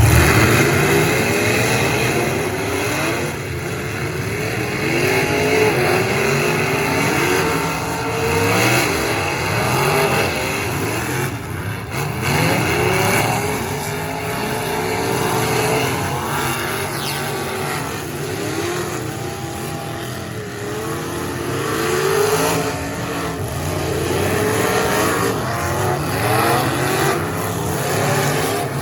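Several race car engines revving up and down together, many pitches rising and falling over one another as the cars accelerate and back off around a figure-8 track.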